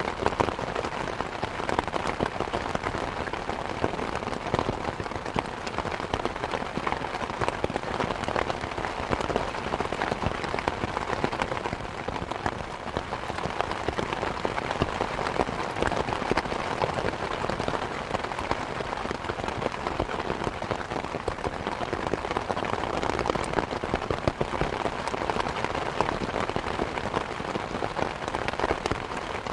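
Steady rain mixed with a wood fire crackling, a dense run of small pops and snaps over the even hiss of the rain.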